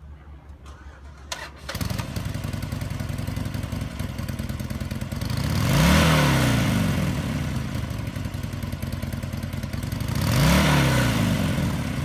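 2011 Harley-Davidson Sportster 1200 Custom's air-cooled V-twin starts about two seconds in and settles to an idle. It is revved twice, near the middle and near the end, its pitch rising and falling back each time.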